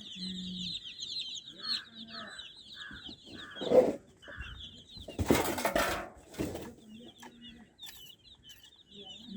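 Domestic chicks peeping constantly in quick, high, downward-sliding notes. About four seconds in comes a sharp knock, the loudest sound, followed a second later by a couple of seconds of scuffling or flapping noise.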